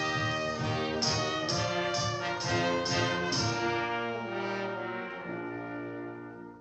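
Orchestral cartoon score led by brass, with accented hits about twice a second, then a held chord that fades away near the end.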